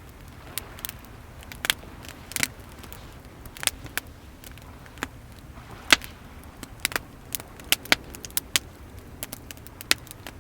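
Wood fire crackling, with irregular sharp pops and snaps, the loudest about six seconds in, over a steady low wash of sea waves.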